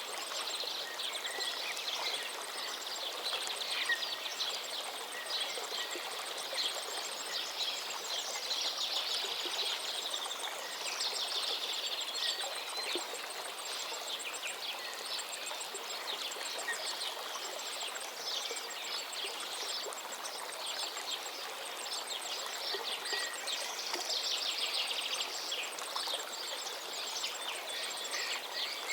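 Several songbirds singing in overlapping rapid trills and chirps over the steady rush of a flowing forest stream.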